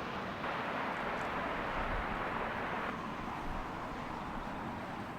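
Jet airliner on final approach, a steady rushing roar that eases slightly as it passes.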